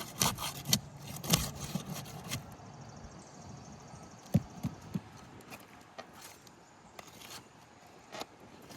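Flat bar prying under a roof shingle to work out a nail: hard clicking and scraping of the metal bar against the shingles, quick and dense for the first two seconds or so, then a few separate knocks.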